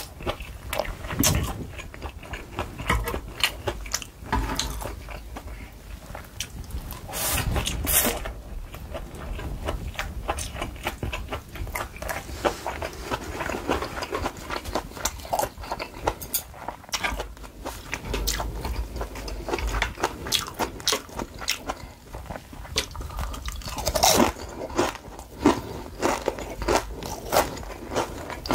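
Close-miked eating of battered fried red peppers and japchae glass noodles: a steady run of crisp crunching and chewing crackles, with louder crunchy bites about eight seconds in and again near the end.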